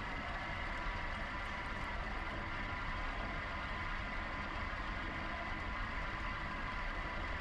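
Steady riding noise from a bike-mounted action camera: a low wind rumble on the microphone with a steady high whine underneath, unchanging throughout.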